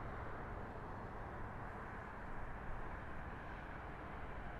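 Steady outdoor background noise, a low rumble and hiss with no distinct events.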